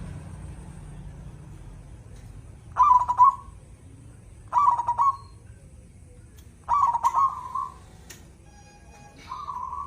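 Zebra dove (perkutut) cooing: four stuttering coo phrases about two seconds apart, each ending in a short drawn-out note, the last one softer.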